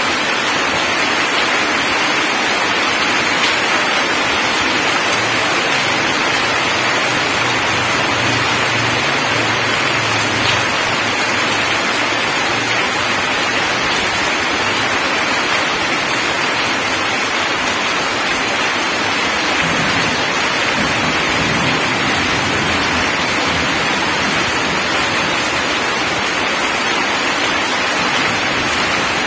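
Heavy rain falling steadily onto a gravel road and its puddles: a dense, even hiss of splashing drops.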